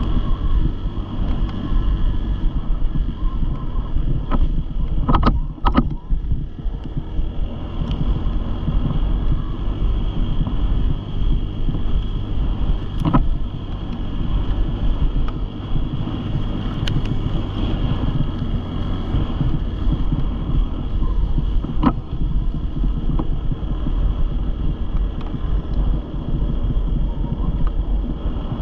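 Dirt bike engine running steadily, with wind buffeting the microphone into a heavy, low rumble. A few sharp clicks cut through it.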